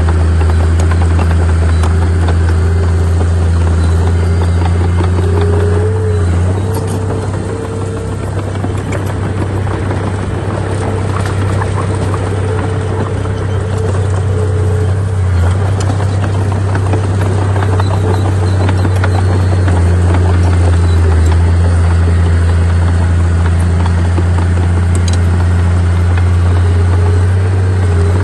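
Bulldozer's heavy diesel engine running steadily under load with a deep drone, a fainter whine above it that rises slightly about six seconds in and fades out midway, and scattered faint clanks.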